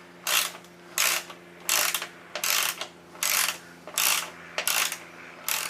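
Hand ratchet wrench being worked back and forth on a fastener, about eight ratcheting strokes at an even pace, over a steady low hum.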